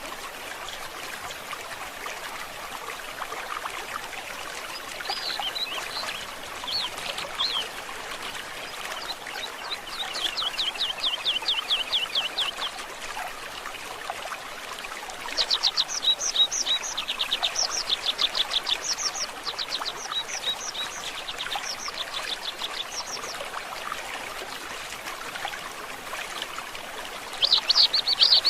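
A stream trickling and babbling steadily, with songbirds calling over it: a few scattered notes, then a fast trill, then a long run of sharp high repeated notes, and a loud burst of calls near the end.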